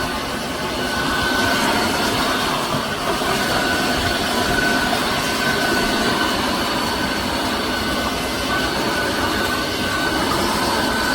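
Tineco iFLOOR 5 Breeze cordless wet-dry floor washer running: a steady motor drone and suction rush with a thin high whine.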